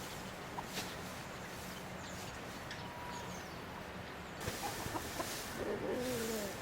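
A domestic chicken gives a short, wavering call near the end, over a steady background hiss with a few light clicks.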